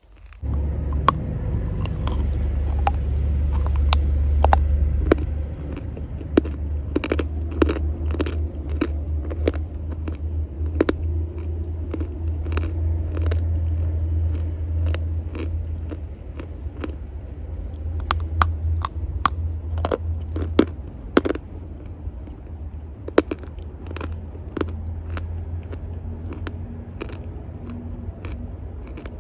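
Chalk and clay being bitten and chewed close to the microphone: many sharp, irregular crunches and snaps, over a steady low rumble.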